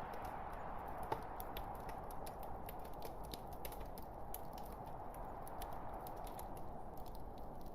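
Wood fire crackling: irregular sharp snaps and pops over a steady rush of burning logs, with one louder pop about a second in.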